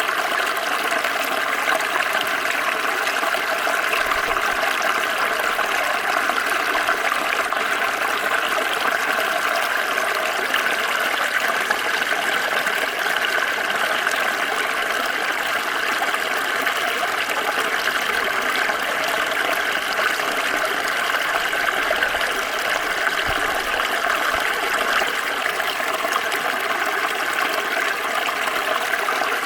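Small stream flowing steadily over stones, a constant rushing babble of water.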